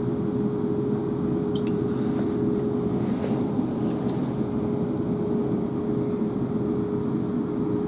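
Class 444 electric multiple unit running along the line, heard from inside the carriage: a steady rumble with a constant whine throughout.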